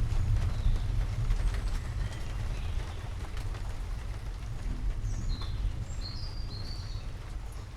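Low rumble of thunder slowly dying away over a steady hiss of rain, with a few short bird chirps in the second half.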